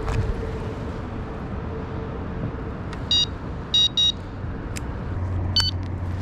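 Electronic carp bite alarm giving a few short, high beeps three to four seconds in and one more near the end: a fish taking the bait and pulling line, over a steady background rush.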